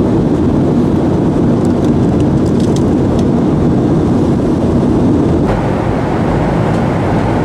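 Steady cabin noise inside a Boeing 737-900ER in level flight: the low rumble of its CFM56-7B engines and rushing air over the fuselage, with a few faint clicks about two to three seconds in.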